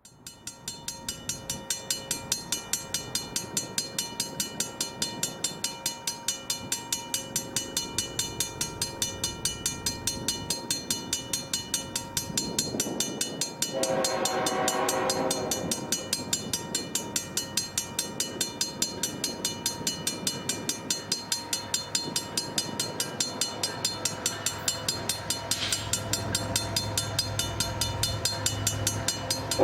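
A level-crossing warning bell ringing steadily, about four strikes a second. Midway, a CN ET44AC locomotive sounds its horn for about two seconds. Near the end the locomotive's low engine rumble builds as it comes closer.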